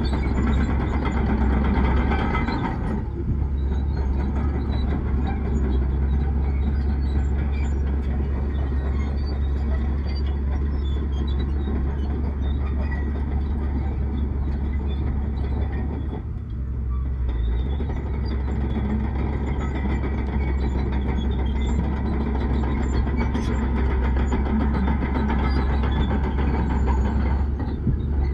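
Heavy diesel earthmoving machinery running steadily with a deep engine drone, dipping briefly twice.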